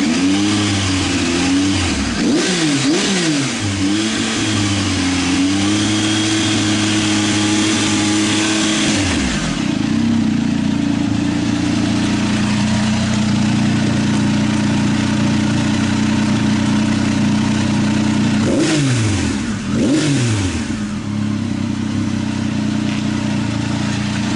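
A 2019 Triumph Tiger 800 XRT's three-cylinder engine, heard through a Fuel Diablo carbon slip-on muffler with its baffle removed, revved by hand: several quick blips, a held rev of about four seconds that drops back to idle, a steady idle, then two more quick blips near the end.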